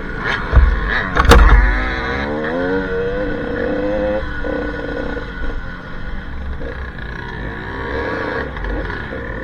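Enduro trail motorcycle engine revving, its pitch rising and falling as the throttle is worked, with two heavy thumps about half a second and a second and a half in.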